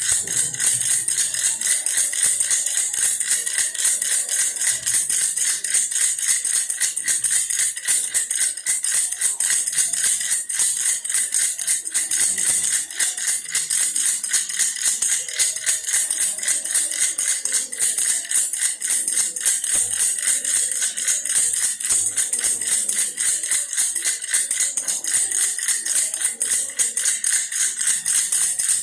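A baby's toy bear rattle shaken without pause: a fast, continuous rattling and jingling.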